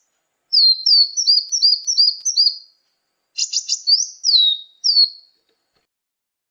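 Small songbird calling, played from a lure recording: a run of quick, high, downward-slurred chirps, then after a short gap a fast rattle of notes and a few more down-slurred calls, stopping about five seconds in.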